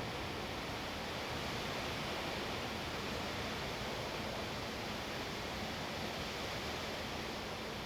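Wind blowing hard and steadily: an even rushing noise with no distinct gusts.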